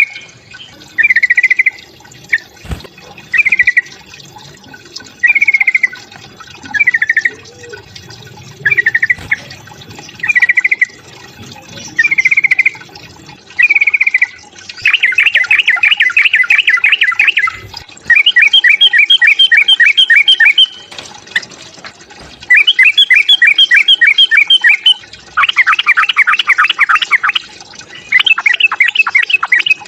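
Yellow-vented bulbul (trucukan) fighting song: short chattering phrases repeated about every second and a half, then from about halfway long, fast rapid trills of two to three seconds each with brief pauses between them.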